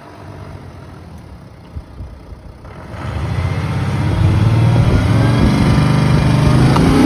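Mercedes-AMG car's engine running low, then revving up and accelerating hard in a launch-control start, getting louder and rising in pitch from about three seconds in.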